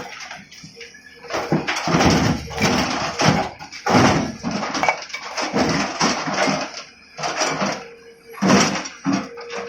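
Stones crashing and clattering as the excavator bucket tips its load into the truck, in irregular bursts of rattling impacts.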